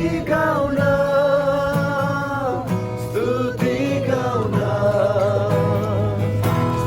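Nepali Christian worship song: voices singing a held, gliding melody over acoustic guitar accompaniment.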